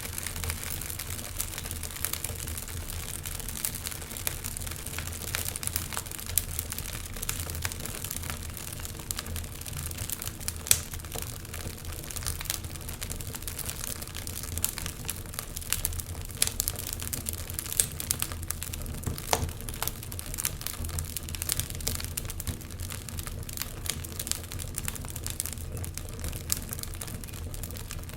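Wood fire crackling: a dense, irregular stream of sharp snaps and pops over a low steady hum, with one louder pop about eleven seconds in.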